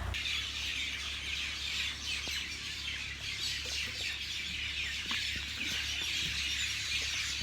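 Many small birds chirping together in a dense, continuous chorus, over a steady low hum.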